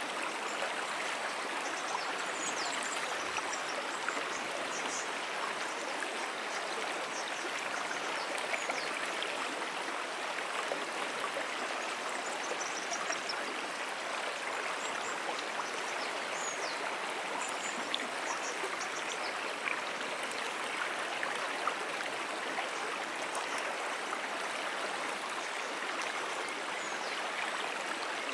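Brook water flowing steadily over its bed, an even rushing babble with no break.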